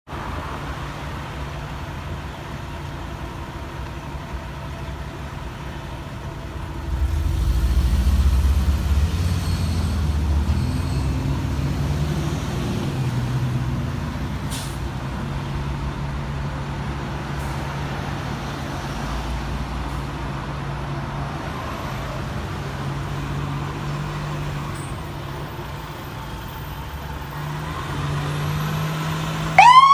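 Fire engine's diesel engine running with a steady low hum, getting much louder about seven seconds in and staying up as the truck gets under way. A siren starts to wail right at the end.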